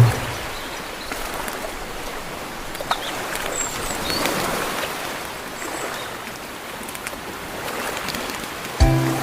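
Steady rushing water-like noise, as of a stream, with a few faint high chirps. Near the end a loud children's music jingle cuts in.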